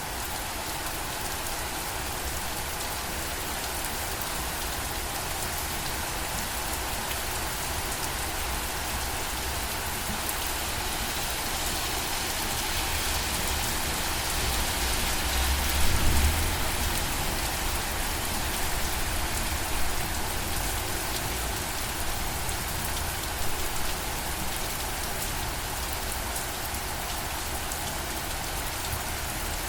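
Steady rainfall, an even hiss of drops on surfaces, with a brief low rumble about halfway through.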